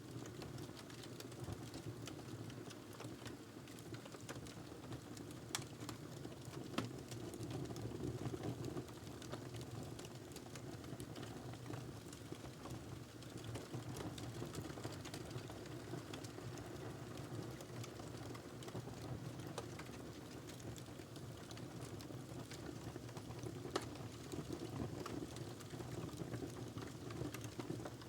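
Wood fire burning in a fireplace: a steady low rush of flames with frequent small crackles and pops, some sharper pops standing out.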